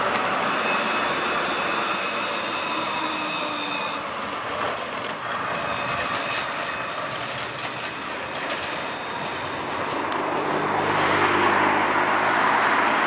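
Passing vehicle noise: a steady rushing with a thin high whine that fades about four seconds in, then a low engine hum that swells and gets louder near the end.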